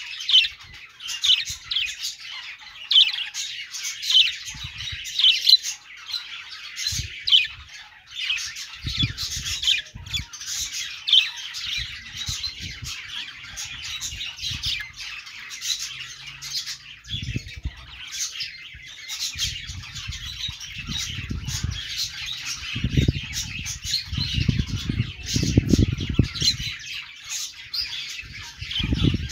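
A flock of budgerigars chattering, with rapid overlapping chirps, warbles and squawks throughout. In the second half, low thumps and rumbles come in bursts under the chatter.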